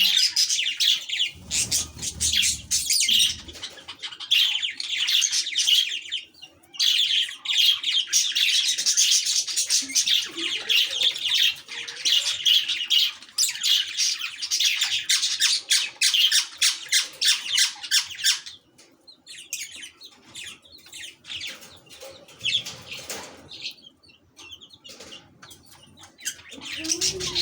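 Lovebirds squawking and chattering in rapid, harsh high-pitched calls, an adult squabbling with a chick. The calling is dense and loud for about two-thirds of the time, then turns sparser and quieter; a brief low rumble sounds about two seconds in.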